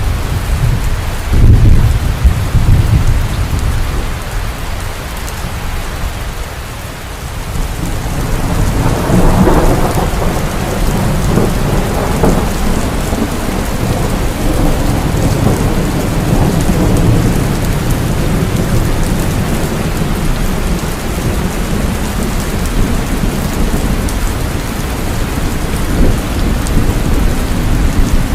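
Heavy rain falling steadily with thunder: a low rumble a couple of seconds in, then a longer rolling rumble that builds from about eight seconds in and slowly dies away.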